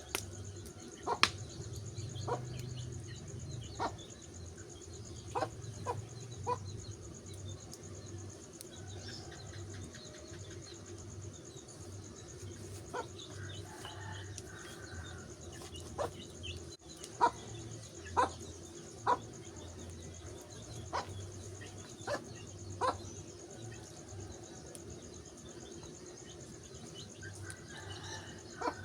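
Wood fire crackling, with sharp pops at irregular intervals, a few of them louder, over a low steady rumble.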